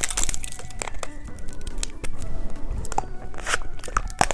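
Close-up crackling and clicking as a microphone-shaped candy is handled and eaten, many small irregular crackles in quick succession, over faint background music.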